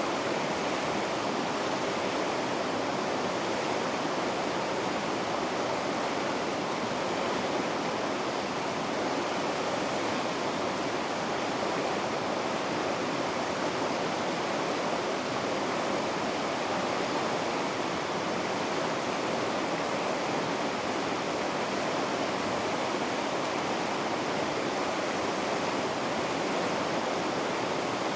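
Rushing water of river rapids, a steady even roar of white water with no change in level.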